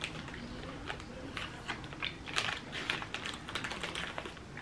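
Close-up eating sounds: a gummy candy being chewed, with irregular wet mouth clicks several times a second. The plastic candy bag rustles as it is handled.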